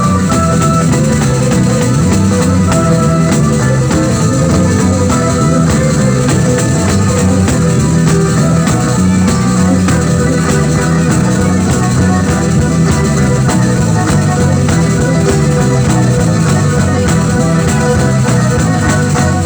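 Live band playing pizzica, the southern Italian folk dance music, loud and continuous over a steady driving beat.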